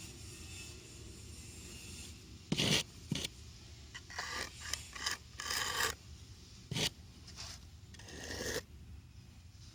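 A series of irregular scraping and rubbing strokes, about eight short ones over some six seconds. The sharpest and loudest come about two and a half seconds in and again near seven seconds.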